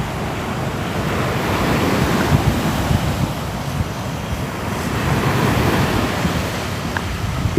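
Ocean waves breaking and washing on the shore, a steady surf that swells and eases in slow surges, with some wind rumble.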